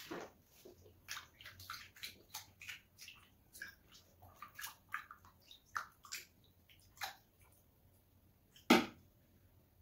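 Close-up wet eating sounds of fufu with slimy okra and ogbono soup: a run of short smacks and squelches from chewing, then one louder smack near the end.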